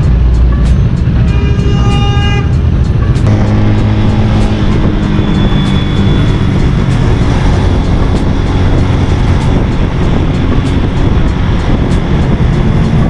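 Motorcycle on the move, a steady low engine rumble mixed with wind noise, under background music with a regular beat; the music's melody is clear for the first three seconds, then the engine and wind rumble take over.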